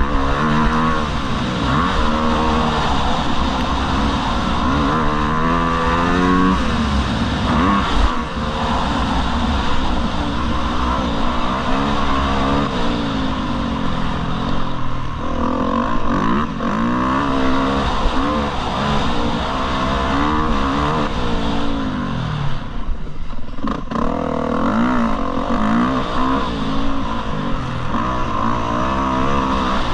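Motocross dirt bike engine revving hard, its pitch climbing and falling back over and over as the rider accelerates and shifts, with a brief let-off about three quarters of the way through.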